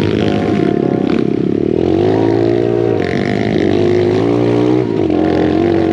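Pit bike engines running on the move, their pitch rising and falling with the throttle.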